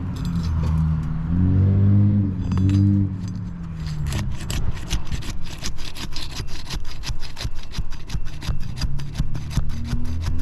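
Asphalt shingle being pried up against its tight adhesive seal, tearing as it comes: rapid, irregular crackling and scraping from about four seconds in. Before that there is a low, steady hum.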